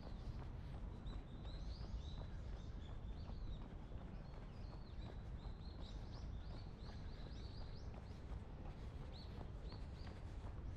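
Small birds chirping over and over in short, high rising notes, over a steady low background rumble and a runner's faint footfalls.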